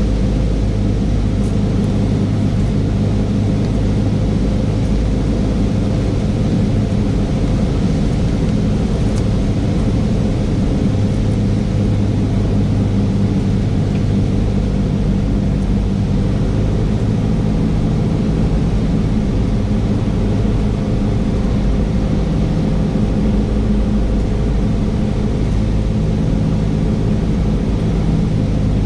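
Cessna 172S's four-cylinder Lycoming engine and propeller droning steadily, heard inside the cabin on final approach.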